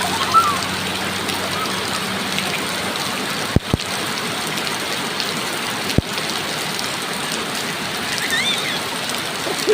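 Rain falling steadily, an even hiss, with a few sharp clicks about three and a half seconds and six seconds in.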